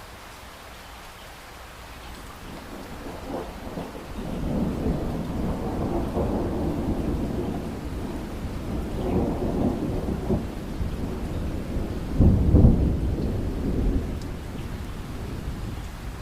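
Steady rain with a long roll of thunder. The rumble swells a few seconds in, rolls on, peaks in a loud deep boom about three-quarters of the way through, then dies back to the rain.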